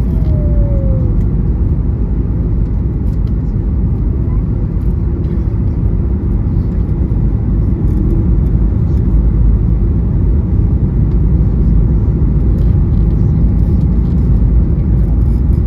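Loud, steady, low rumble of a Boeing 737's engines and airflow, heard inside the passenger cabin during the landing.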